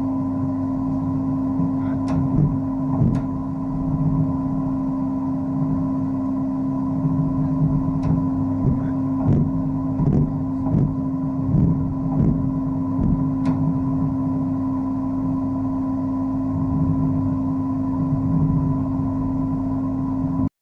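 Wet-blasting (aquablast) equipment running with a steady motor hum, with scattered knocks and clicks.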